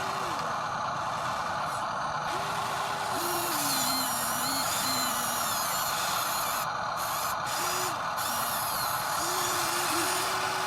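Small electric motors and plastic gearboxes of radio-controlled construction models whirring steadily, with a pitched whine that holds and then drops in pitch several times as the motors change speed.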